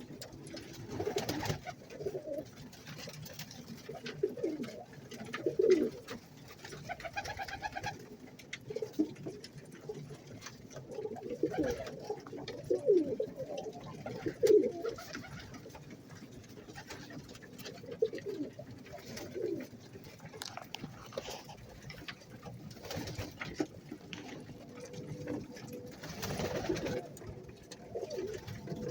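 Domestic pigeons cooing over and over, many low rolling coos overlapping, with a few soft clicks and scuffles in between.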